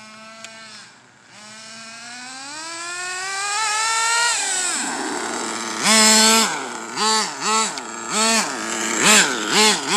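Small .21 nitro glow engine of an RC car, a two-stroke, idling, then revving up steadily for a couple of seconds before dropping back. From about six seconds in it is blipped up and down in about six quick throttle bursts.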